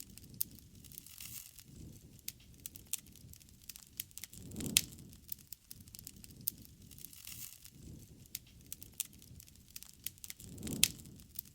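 Wood campfire crackling, with irregular sharp pops and snaps over a low flame rumble that swells twice, about five seconds apart, each swell peaking in a loud pop.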